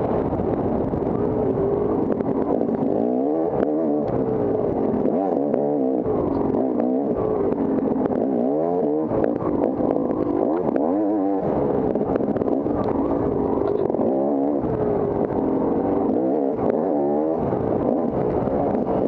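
Off-road dirt bike engine being ridden hard, its pitch repeatedly rising and falling every second or two as the throttle opens and closes.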